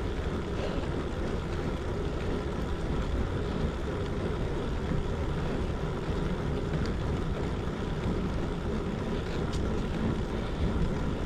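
Steady wind rush buffeting the microphone of a moving bicycle, with a low rumble and the hiss of tyres rolling on wet pavement.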